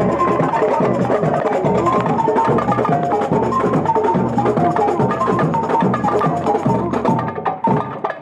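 Samba bateria playing live: drums and percussion keeping a steady, driving samba beat with a pitched melody over it. The drumming thins out and briefly breaks off near the end.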